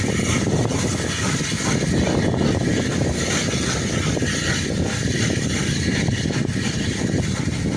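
A train of passenger coaches rolling past close below, a steady loud rumble of wheels on the track.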